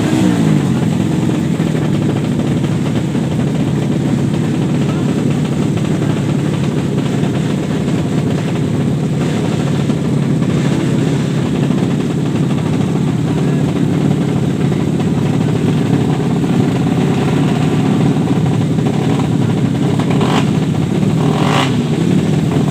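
Single-cylinder motorcycle engine dropping from a rev to a steady idle, running on with small wavers in engine speed. Two brief higher-pitched sounds come near the end.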